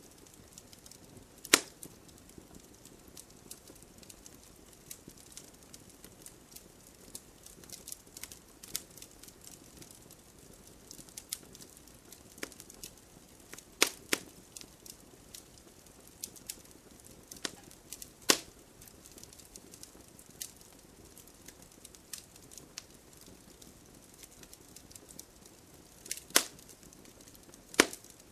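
Wood fire crackling: scattered small ticks over a faint hiss, with about five loud sharp pops spread through.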